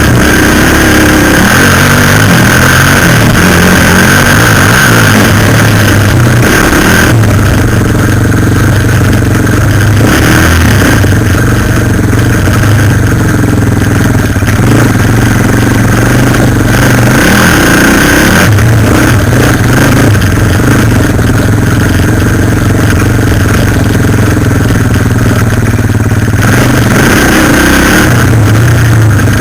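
Suzuki LT-Z400 quad bike's single-cylinder four-stroke engine running close up under changing throttle, its pitch rising and falling several times, with a constant rush of noise over it.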